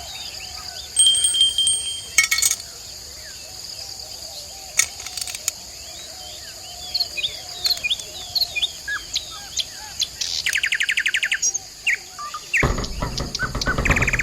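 Small birds chirping and calling, one giving a rapid even trill about ten seconds in, over a steady high insect drone. A louder noise comes in near the end.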